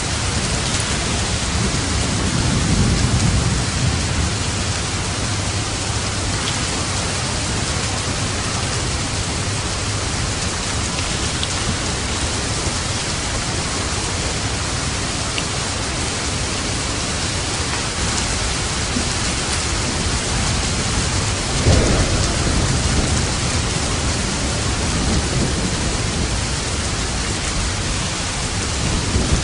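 Steady, heavy rain, with a low rumble of thunder about two to four seconds in and a sharper thunderclap about twenty-two seconds in.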